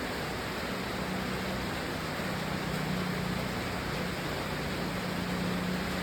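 Steady rain, an even hiss with no separate drops standing out, with a low steady hum setting in about a second in.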